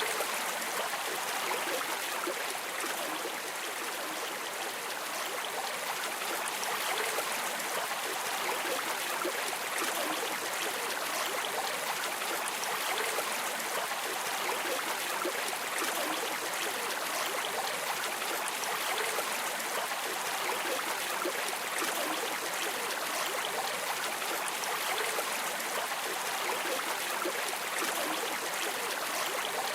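Steady streaming of flowing river water, a continuous even rush with no breaks.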